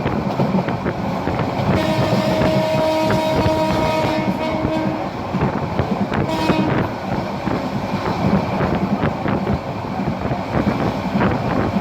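Passenger train running along the track, a steady rumble with rapid wheel clicks and wind on the microphone. A steady tone sounds for about three seconds near the start.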